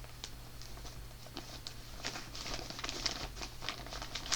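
A shopping bag rustling and crinkling while books are handled and pulled out of it, with quick light taps and crackles that grow busier about halfway through and peak at the end.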